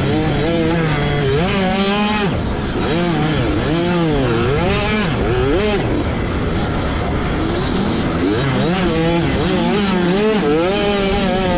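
65cc two-stroke motocross bike engine revving up and down again and again as the throttle is opened and shut through the gears, heard close on the bike.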